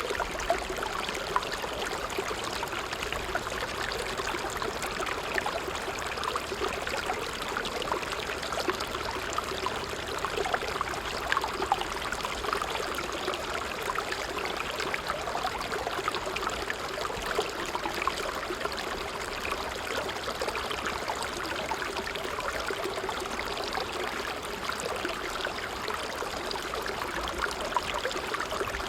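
Small stream of running water, trickling and gurgling steadily with a constant patter of tiny splashes.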